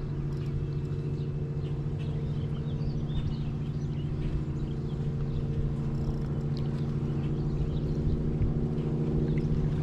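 A motor running steadily with an even, low hum, with faint bird chirps over it.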